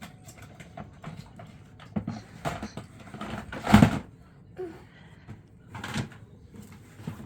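A run of knocks and clattering as things are handled and moved, with a loud thump just under four seconds in and another knock near six seconds.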